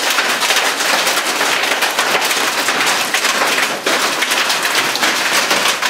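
Rain falling steadily, with many sharp little ticks of drops striking close by.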